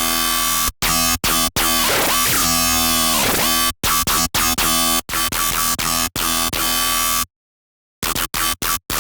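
Serum wavetable synthesizer patch being played: thick buzzing synth notes in short stabs and held notes, with a sweep that dips in pitch and rises back in the middle. The notes stop about seven seconds in, then a few quick stabs follow near the end.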